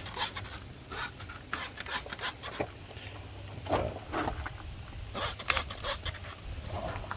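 Hand trigger sprayer squirting degreaser onto an engine, set to its stream ("blast") setting: many short squirts at an irregular pace. A low steady hum runs underneath.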